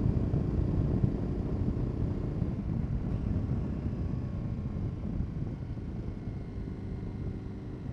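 KTM 1290 Super Adventure S's V-twin engine running on the move through an aftermarket Wings exhaust. It is a deep, pulsing rumble that grows gradually quieter through the stretch.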